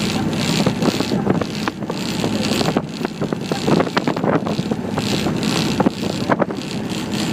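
A boat's engine running steadily under way, with wind buffeting the microphone in gusts and crackles.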